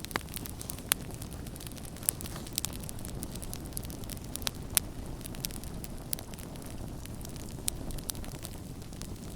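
Campfire crackling: irregular sharp pops and snaps, a few of them loud, over a steady low rush of burning.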